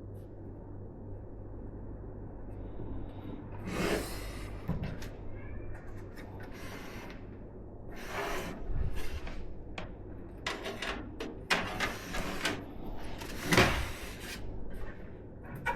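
Hands working on PC parts during a build: irregular rustles, scrapes and light knocks, the loudest about four seconds in, around eight seconds in and near the end, over a low steady hum.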